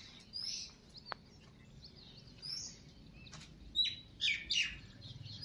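Small birds chirping: scattered short, high calls that come quicker and louder in the last couple of seconds. A faint click is heard about a second in.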